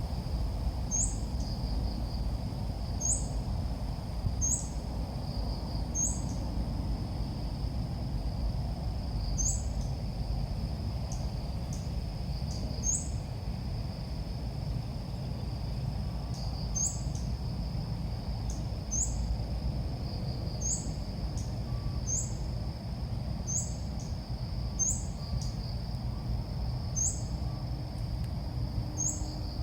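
Ốc mít (sooty-headed bulbul) calls played as a trapping lure: short, high, upward-flicking chirps repeated about every one to two seconds, over a steady high whine and a low background rumble.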